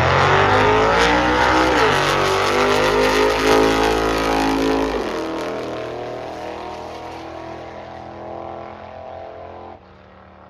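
Drag-racing cars accelerating hard down the strip. The engine note climbs, drops at a gear change about two seconds in, climbs again, then fades away after about five seconds as the cars pull off into the distance.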